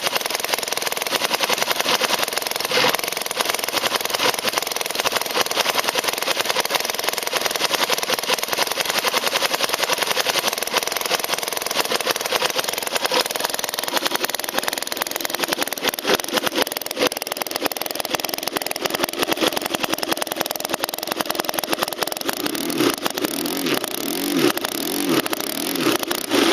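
A 31cc four-stroke gas engine, converted from a weed trimmer for R/C use, runs steadily. Near the end it is revved up and down about five times in quick blips.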